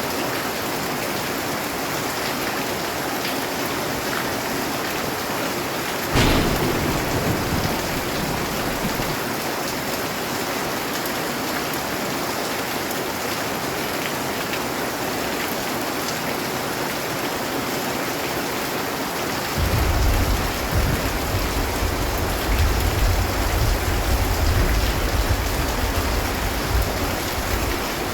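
Steady rain hissing, with a sudden thunderclap about six seconds in that rumbles off over a few seconds, and a long low roll of thunder from about twenty seconds in until near the end.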